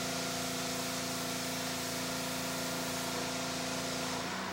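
Steady background machine hum with an even hiss, unbroken throughout; the hum shifts slightly near the end.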